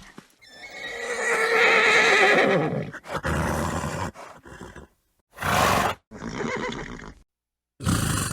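A horse neighing: one long, wavering whinny of about two and a half seconds, followed by several shorter horse calls and snorts separated by brief silences.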